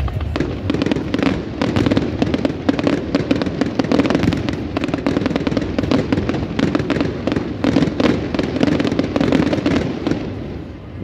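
Fireworks display: a rapid, dense barrage of bangs and crackles from bursting fireworks, dying down near the end.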